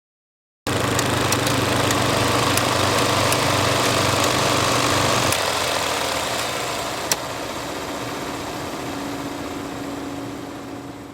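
Film projector running: a steady mechanical whir with scattered light clicks, starting suddenly about a second in. Its low hum drops away about halfway through, a single sharp click follows, and the sound fades out at the end.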